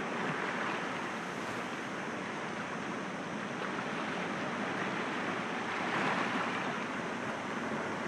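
Sea waves breaking gently against rocks: a steady wash of surf, with one wave swelling louder about six seconds in.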